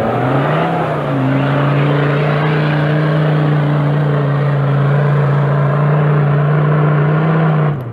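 Off-road vehicle's engine revving up in the first half-second, then held at steady high revs under load for several seconds before it stops abruptly near the end.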